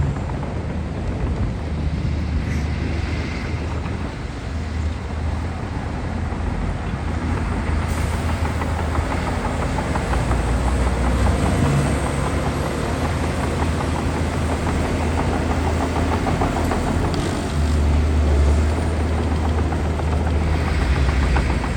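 Heavy diesel earthmoving machinery, a bulldozer and dump trucks, running steadily under load with a deep rumble that grows louder for a few seconds near the end.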